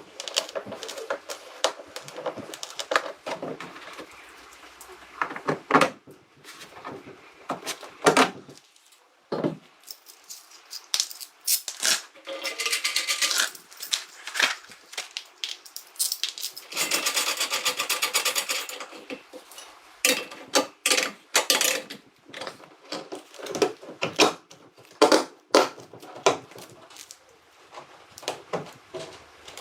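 Irregular clicks, knocks and clatter of small hard objects being handled, with two hissing stretches of a couple of seconds each, around twelve and seventeen seconds in.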